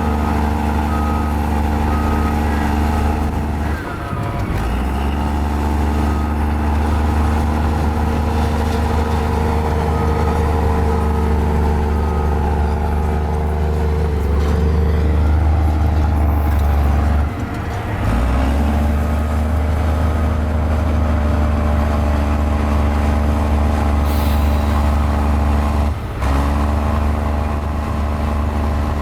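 Diesel engine of a mini Komatsu bulldozer running steadily under load while it pushes fill, with a deep rumble that dips briefly three times. A faint repeated beep sounds at times.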